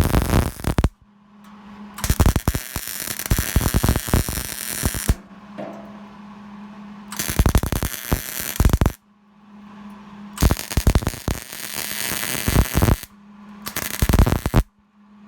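Arc welding crackling in short runs, about five in a row, each lasting one to three seconds. A steady low hum fills the pauses between them.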